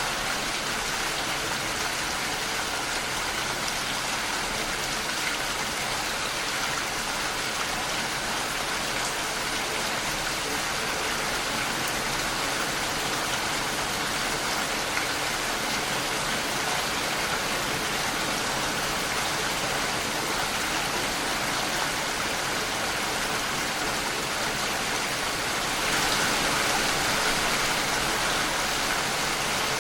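Steady rain falling, an even hiss of drops on a surface, a little louder for the last few seconds.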